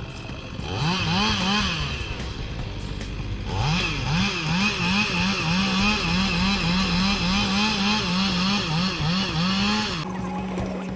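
Chainsaw engine revved up and down over and over, about two revs a second, then dropping back to a steady idle near the end.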